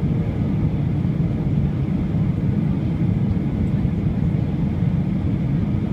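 Steady rumble of a Boeing 737-800 airliner's CFM56 turbofan engines and airflow heard inside the passenger cabin, even and unchanging.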